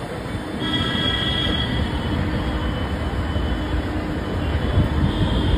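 Steady rumble and rattle of passenger trains running on the rails, heard from an open window of a moving coach as an electric-hauled train approaches on the next track. A high, thin squeal rises briefly about a second in and again near the end.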